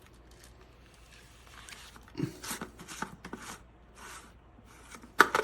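Threaded filter housing of a shower head being twisted open by hand, its threads scraping and grinding in a series of short bursts. A sharp clack sounds about five seconds in.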